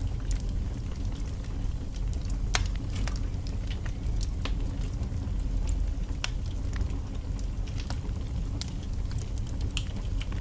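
Wood fire burning in a fireplace: a steady low rumble of flames with frequent sharp crackles and pops from the logs, two louder pops about two and a half and six seconds in.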